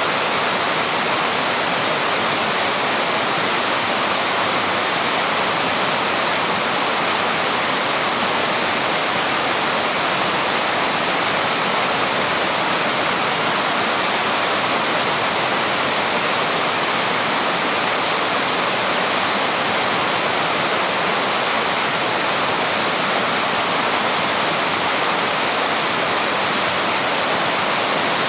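Steady rushing of a waterfall, an even wash of white water with no change in level.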